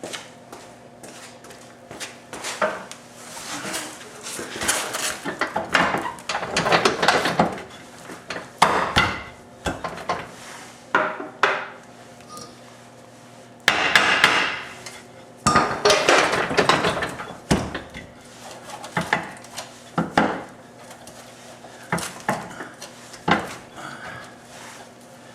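Irregular clinks, knocks and clatter of hand tools and metal parts being handled while nuts are put on a car's rear subframe by hand, with denser rattling stretches around the middle, over a faint steady hum.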